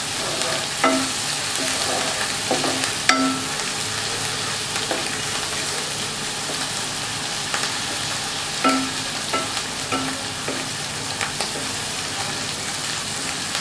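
Onion paste sizzling as it fries in ghee in a non-stick wok, being browned lightly to cook off its raw smell. A wooden spatula stirs and scrapes it, now and then knocking on the pan with short ringing taps.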